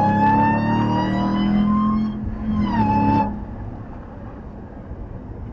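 A Hellcat truck's supercharged V8 under hard acceleration, its supercharger whine climbing steadily with the revs. It dips briefly about two seconds in, climbs again, then drops away about three seconds in as the throttle lifts, leaving a quieter engine hum and road noise.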